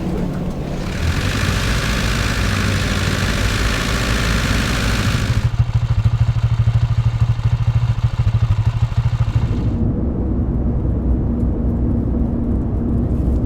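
Vehicle engine recordings cutting from one to the next: first a hissing engine noise over a low hum, then about halfway through an engine idling with a low, fast throbbing pulse, then a darker low rumble.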